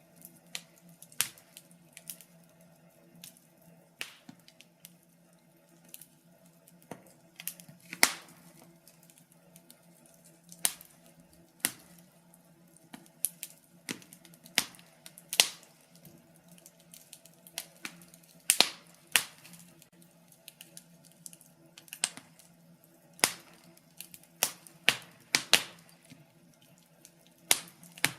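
Wood burning in a fireplace, crackling with irregular sharp pops, sometimes a second or two apart and sometimes in quick clusters, over a faint steady hum.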